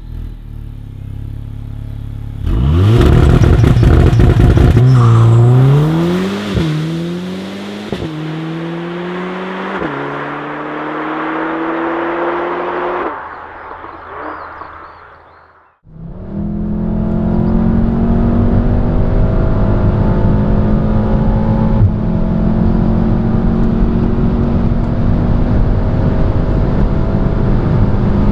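Onboard sound of a turbocharged four-cylinder hot hatch under full-throttle acceleration: the engine note climbs and drops back at quick upshifts roughly every one and a half to two seconds. After a brief cut, the engine drones at a steady pitch at high autobahn speed under loud road and wind noise.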